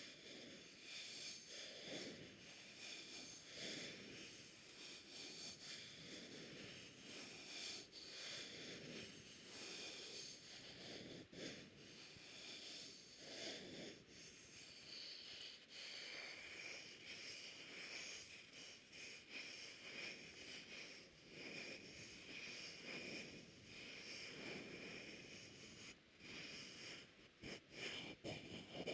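Soft, breathy mouth sounds and breathing close to the microphone, swelling every second or two, with a few sharp clicks near the end.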